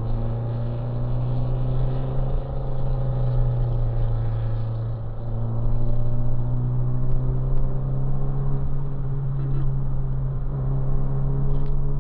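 Chevrolet Caravan's four-cylinder engine running steadily at highway cruising speed, heard from inside the cabin with road noise, its pitch shifting slightly a few times.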